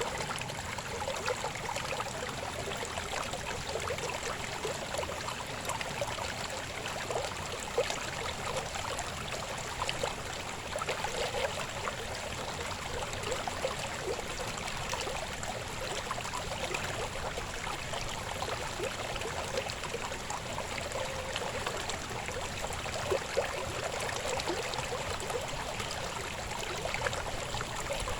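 Shallow river babbling over stones: a steady rush of flowing water with continual small splashes and gurgles.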